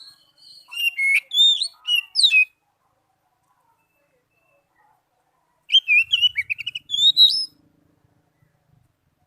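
Oriental magpie-robin singing: two bouts of quick, varied whistled notes sliding up and down, one about a second in and another about six seconds in, with a silent pause between.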